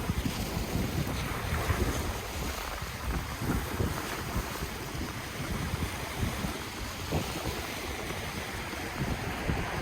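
Ocean waves washing onto the shore in a steady, even rush of surf, with wind buffeting the microphone in low, uneven rumbles.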